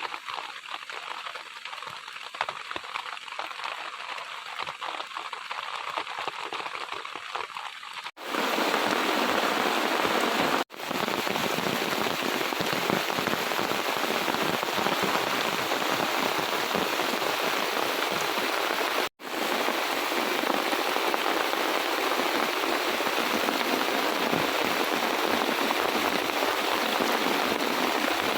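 Heavy rain falling as a steady hiss, lighter at first and then much heavier from about 8 seconds in, broken by a few sudden dropouts.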